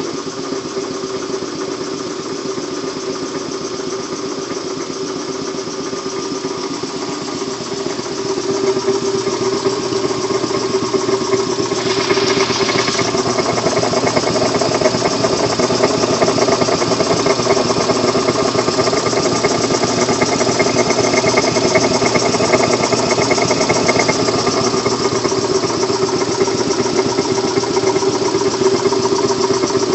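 Kellogg 325TV air compressor running steadily, a hum with a strong steady tone. It grows louder about eight seconds in, and a brief hiss comes about twelve seconds in.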